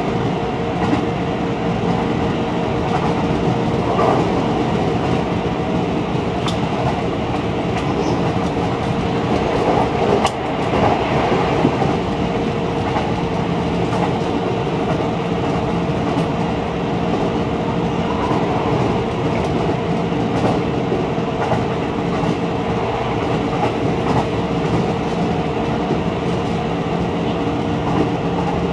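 Keihan electric commuter train running along the line, heard from inside the front car: continuous running noise with a steady hum and wheels clacking over rail joints. There is a sharp click and a slightly louder stretch about ten seconds in.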